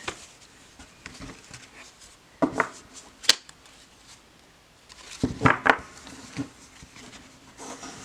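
Tarot cards and their packaging being handled: a few light knocks and clicks, with a sharp click about three seconds in and a louder cluster of knocks just past halfway.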